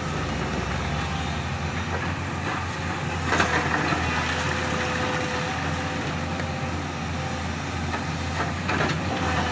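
Excavator's diesel engine running steadily with a steady whine over it, with a sharp knock about three and a half seconds in and another near the end.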